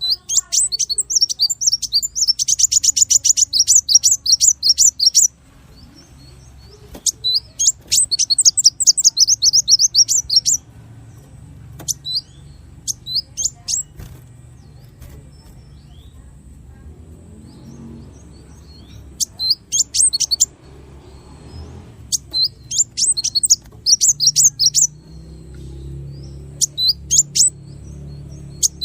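Small songbird singing in rapid bursts of sharp, high-pitched notes, the fast 'tembakan' chatter used as masteran training song for cage birds. The long bouts at the start and around eight to ten seconds in give way to shorter spurts separated by pauses, over a faint low hum.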